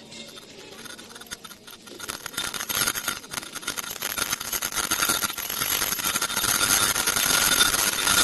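Filter bag making machine starting up and running: a fast mechanical clatter of rapid clicks comes in about two seconds in and grows steadily louder, with a steady high whine over it.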